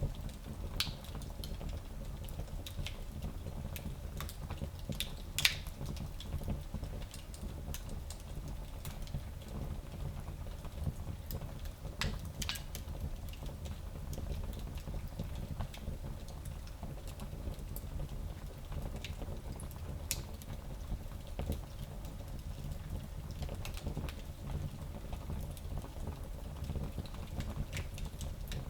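Wood fire burning in a small fireplace: a steady low rumble with scattered crackles and pops, the loudest about five seconds in and again about twelve seconds in.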